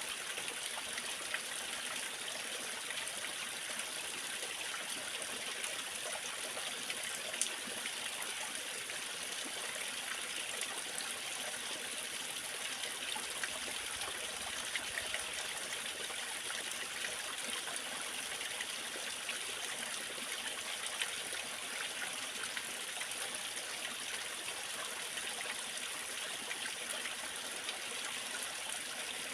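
Waterfall: water falling and running in a steady rush, with small splashes here and there.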